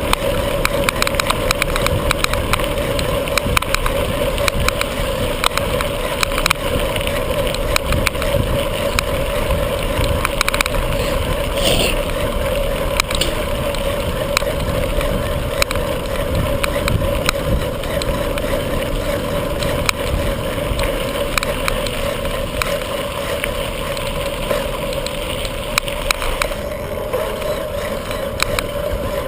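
Riding noise from a bicycle, recorded from the rider's point of view: steady rushing of wind and tyres with frequent rattling clicks from the bike.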